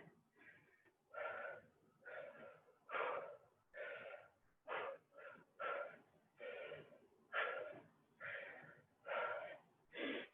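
A person panting hard and rhythmically, about one loud breath every second, out of breath from high-intensity exercise.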